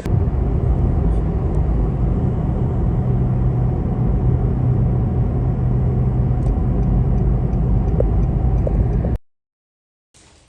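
Steady low rumble with a constant hum from a running vehicle, cutting off abruptly near the end.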